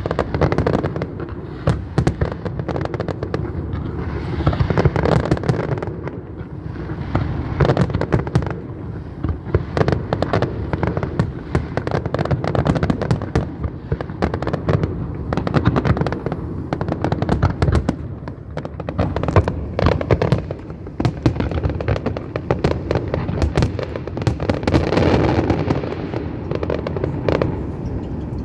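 Aerial fireworks going off in a dense, continuous barrage of many overlapping bangs.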